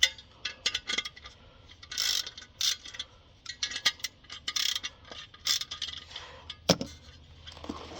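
Hand ratchet wrench clicking in short, irregular runs of strokes as nuts or clamp bolts on the car's exhaust are worked.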